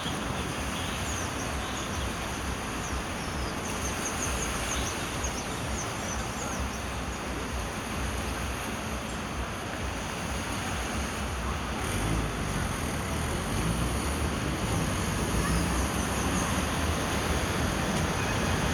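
Heavy rain falling steadily: a dense, even hiss with a low rumble underneath, growing slightly louder toward the end.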